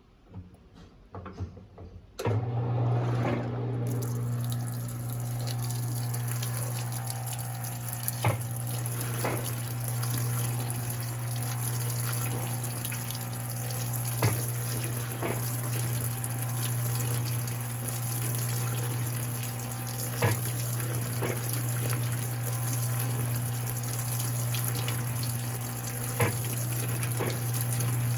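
Electrolux LPE16 washing machine starting to take in water about two seconds in, after a few faint clicks: a steady rush of water with a constant hum beneath it, and a sharp click about every six seconds.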